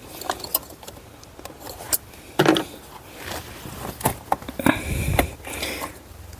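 A hook tool prying at the plastic quick-connect of an EVAP hose on the purge valve: scattered clicks, scrapes and knocks of metal on plastic, busiest about two and a half seconds in and again near five seconds.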